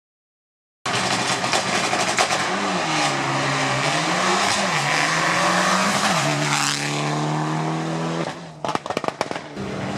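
Rally car driven hard at speed, its engine note rising and falling with throttle and gear changes over a loud rush of tyre and road noise. The sound cuts in suddenly after a short silence and near the end breaks into a quick series of sharp crackles.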